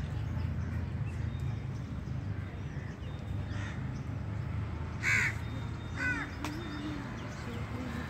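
A bird calling outdoors: one loud harsh call about five seconds in, then a quick run of shorter calls a second later, over a steady low rumble.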